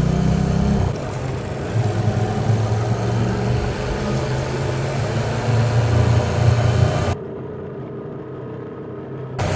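Hyosung Aquila 125 V-twin motorcycle engine running under way, its low note rising and falling with the throttle. About seven seconds in the sound drops suddenly to a quieter, muffled stretch for about two seconds, then comes back.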